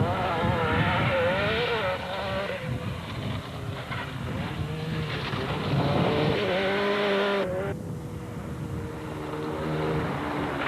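Rally car engine revving up and down as the car is driven hard, its pitch wavering through the corners, with an abrupt lift-off about seven and a half seconds in before it pulls again at a steadier pitch.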